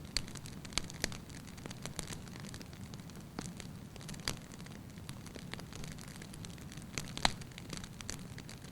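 Wood fire burning in a fireplace: logs crackling and popping at irregular intervals over a steady low rumble, with one sharper pop about seven seconds in.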